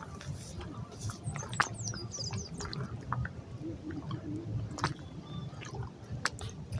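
Scattered sharp clicks and handling noises over a low outdoor rumble, with a small bird chirping rapidly for about a second, starting about a second in.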